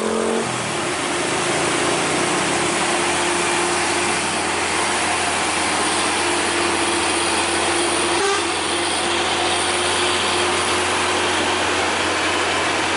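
Truck engine running steadily with a constant hum, under a loud, even rushing noise.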